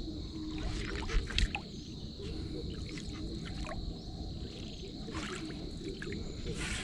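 Water sloshing and splashing, with a few sharper splashes, over a steady high-pitched hum.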